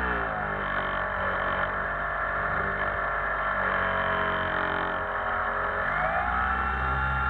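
Electric motor and propeller of an RC FunCub model plane whining, its pitch dropping just after the start, holding steady, then rising again about six seconds in as the throttle changes. A steady low rumble of wind lies underneath.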